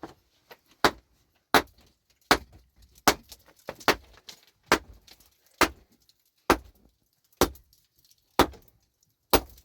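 A hand tool striking a hard surface in a steady rhythm, about eleven sharp blows a little under a second apart, with a metallic clink to each.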